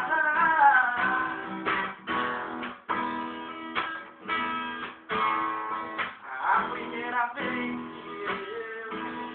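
Acoustic plucked-string instrument playing an instrumental passage, with strummed chords and picked melody notes.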